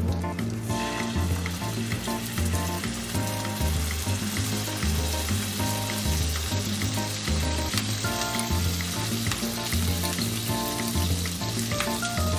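Steady sizzling of food frying in hot fat, under background music with a regular bass pattern.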